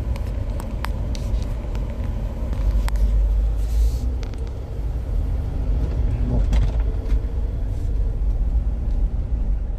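Car running at low speed, heard from inside the cabin: a steady low drone of engine and tyres, with scattered short clicks.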